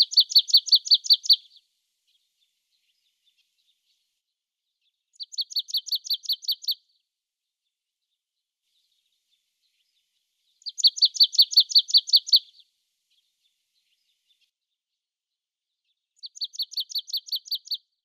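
A bird's high rapid trill of about eight notes a second, heard four times at even intervals, each lasting about a second and a half.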